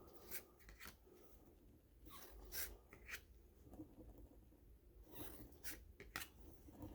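Faint, scattered rustling and scraping of sealed baseball card packs and cards being handled, in seven or eight short strokes spread over a few seconds.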